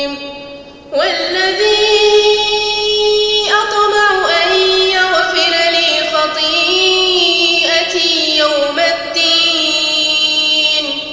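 A woman reciting the Quran in a slow, melodic tajweed style, drawing out long held notes that bend gently in pitch. There is a brief pause for breath about a second in.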